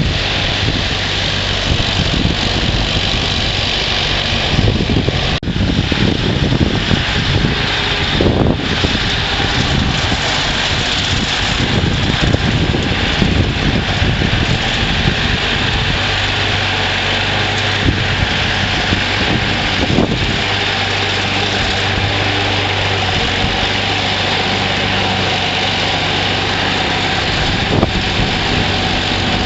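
Ingersoll garden tractor engine running steadily while snowblowing, under a continuous rushing hiss, with a steady low hum that settles in about halfway through.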